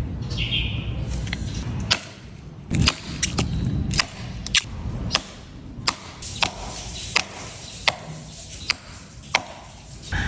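A series of sharp, irregular knocks, roughly one to two a second, over a steady low rumble.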